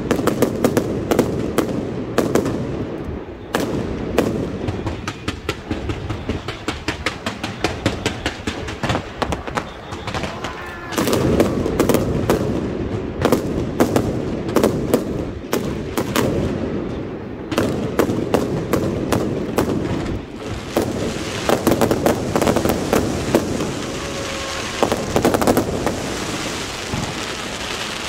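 Aerial fireworks display: a dense, continuous barrage of rapid cracks and bangs over a steady rumble of bursting shells, with a thicker high crackle in the later part.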